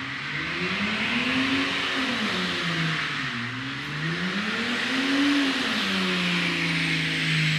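A car engine revving hard during a burnout, its pitch swinging up and down about three times and then holding at a steady high rev, over a loud continuous hiss of spinning tyres.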